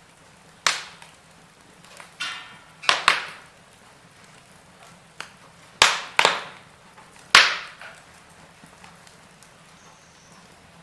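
Wood fire crackling in a fireplace: about half a dozen sharp pops and snaps of burning logs, spaced irregularly, over a quiet steady background.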